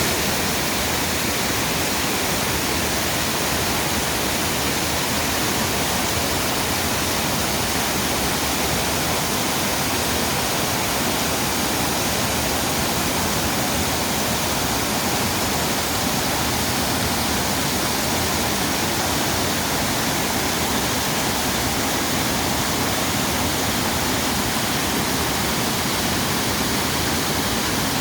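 Steady, unbroken rushing noise of water, even across high and low pitches and unchanging throughout.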